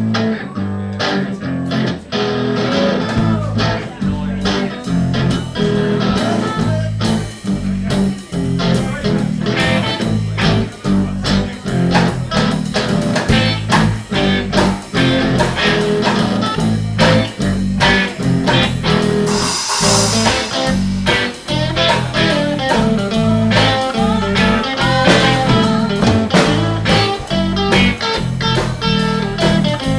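A live band starts an instrumental blues number, led by electric guitar over bass, coming in suddenly at full volume with a steady beat.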